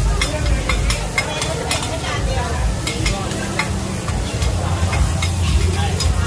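Mussel and egg pancakes (hoi tod) frying on a large flat iron griddle, sizzling steadily. Irregular sharp clinks and scrapes of a metal spatula and ladle on the pan come every second or so, over a low rumble.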